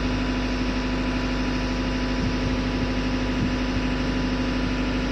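Steady drone of running machinery in a ship's engine room: an engine running at a constant speed, with a strong even hum over a wide haze of mechanical noise.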